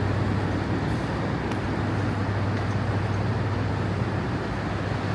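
Steady low hum and rumble of a train standing at the platform with its engine running, over an even wash of station noise.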